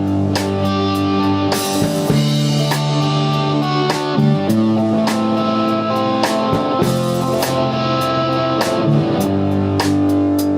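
A live rock jam: guitar and bass playing held chords that change about every second, over a drum kit keeping a steady beat with regular cymbal hits.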